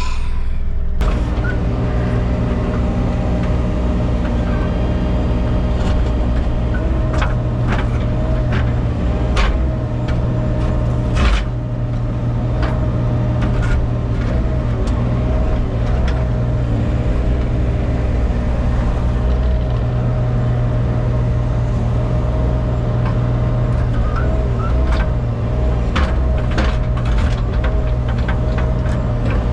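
A machine engine running steadily throughout, with scattered clanks and knocks as boulders are worked into place.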